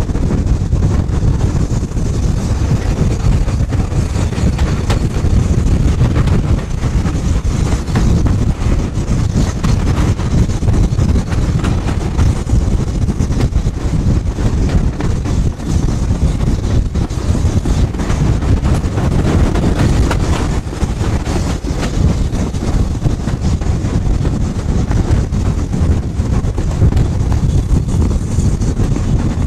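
Steady rumble of a train in motion, heard from on board, with wind buffeting the microphone.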